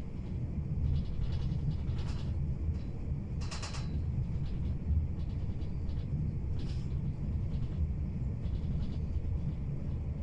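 Passenger train carriage running at speed: a steady low rumble of the wheels on the track. Brief high-pitched rattling bursts come about three and a half seconds in, with fainter ones around two and seven seconds in.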